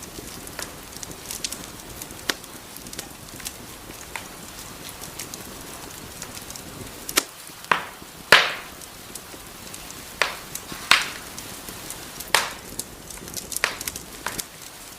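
Wood fire crackling: a steady soft hiss with scattered sharp pops, which come more often and louder in the second half, the loudest about eight seconds in.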